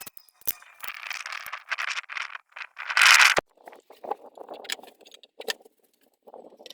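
Rattling and scraping of hand tools and car parts being handled, with scattered clicks and a short loud burst of noise about three seconds in.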